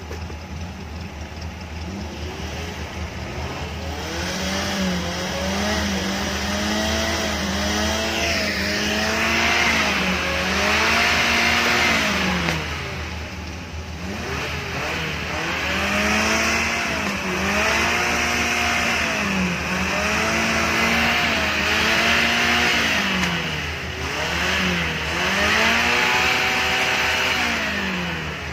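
An off-road 4x4's engine revving up and down again and again, starting a few seconds in. Each rev rises and falls in pitch over a second or two, over a steady low engine rumble.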